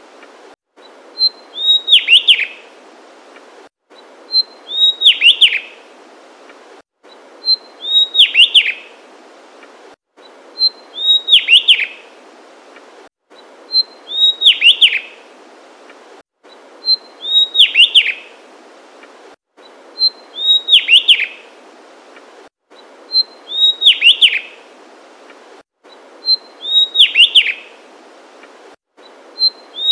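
Javan tesia singing: a short high note followed by a quick run of whistled notes sliding downward, the same phrase repeated about every three seconds.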